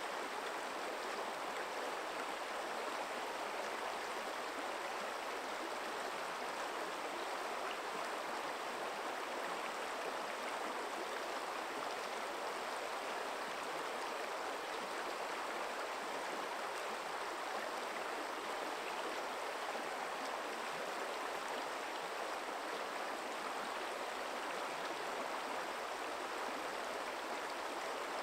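Forest stream running steadily over stones, a continuous even rushing of water.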